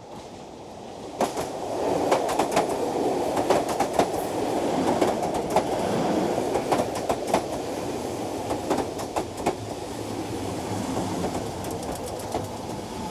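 Electric commuter train pulling in, its wheels clicking over rail joints above a steady rumble. It grows louder over the first two seconds, the clicks come thick through the middle, then the sound slowly eases off.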